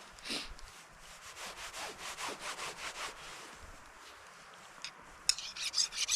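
Knife sawing back and forth through cooked steak in quick strokes, about five a second, trailing off about three seconds in. A few sharp crunching sounds come near the end.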